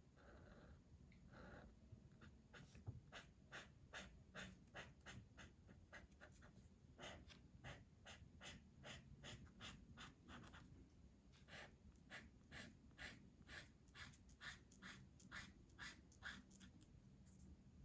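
Faint scratching of a colouring pencil or marker on paper: quick back-and-forth strokes, about two or three a second, as a colouring page is filled in.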